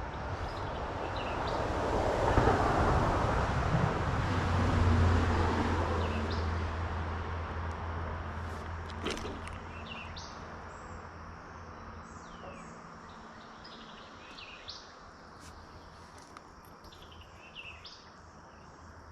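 Low engine drone of a passing vehicle swelling over the first few seconds, then slowly fading away, with small birds chirping through the second half.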